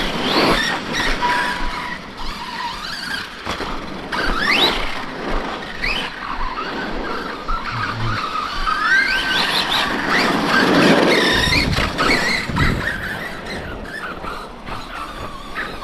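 Brushless electric motors of RC monster trucks whining, the pitch rising and falling again and again as the throttle is worked, with a couple of low thumps about two-thirds of the way through.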